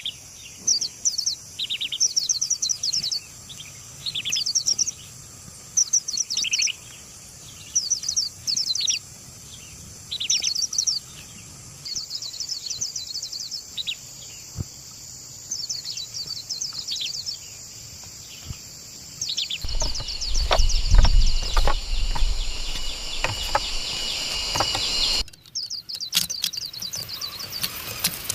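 Birds calling in short repeated bursts of chirps, about one burst a second, over a steady insect hiss. About two-thirds of the way in the sound cuts abruptly to a low rumble with scattered knocks and clicks, and near the end it cuts again to a dense high insect-like hiss with clicks.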